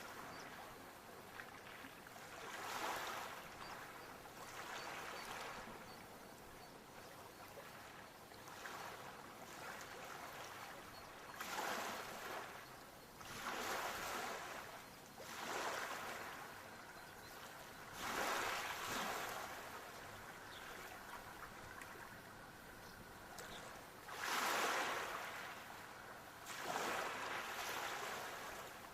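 Sea waves washing in, a rushing surge every few seconds that swells and fades, the loudest about three-quarters of the way through.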